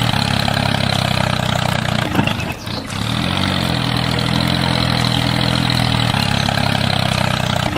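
Tractor-type engine running steadily at idle, with a short dip about two and a half seconds in.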